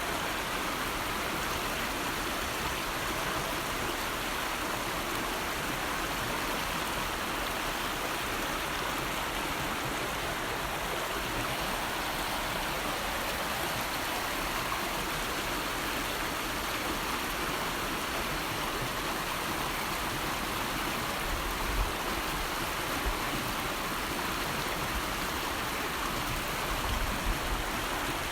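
River water flowing steadily: an even, unbroken rushing. A few brief low bumps stand out in the last third.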